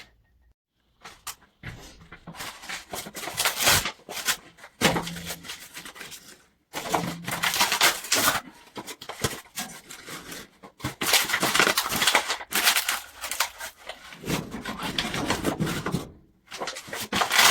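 Cardboard being torn and crumpled by hand and stuffed in as kindling for a wood-burning fireplace stove: irregular rustling and tearing with short pauses.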